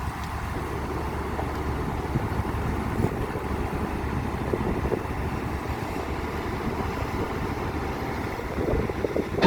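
Heavy diesel machinery running steadily with a rough rumble, with no distinct hammer blows standing out.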